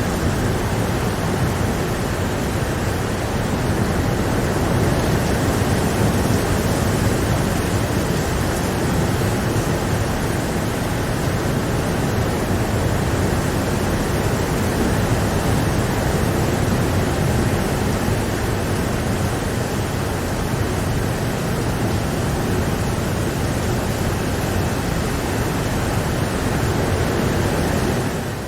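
Rain falling steadily, a constant even hiss and patter with no changes.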